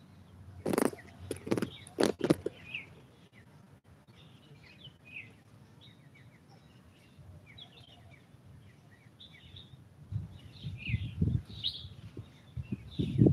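Small birds chirping over and over, with a few loud knocks about a second in and low rumbling near the end.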